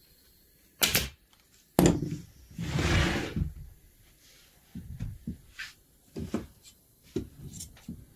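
Knocking and clattering: two sharp knocks about a second apart, a longer scraping or rustling noise after them, then several lighter knocks and clicks.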